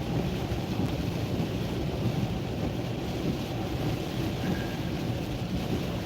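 Steady road noise heard from inside a car's cabin while driving on a wet road in rain: tyres running on the wet surface, with the rain.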